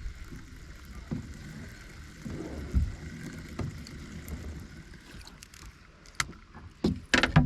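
A kayak on the water with low rumbling noise, then a few sharp knocks near the end, like gear or a paddle striking the hull.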